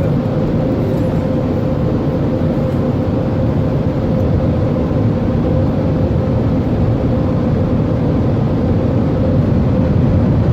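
Automatic car wash air dryer blowers running, a loud steady rush of air with a held whine.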